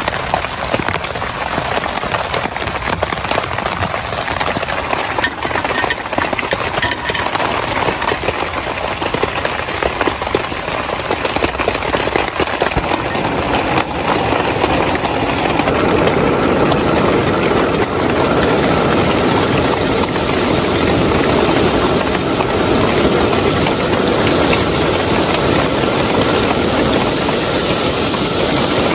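Heavy rain drumming on a tent, with many separate drop hits at first, turning into a denser, steadier downpour about halfway through.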